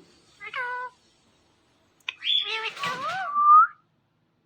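Indian ringneck parrot vocalising: a short call about half a second in, then a longer call about two seconds in whose whistle-like pitch glides up and down.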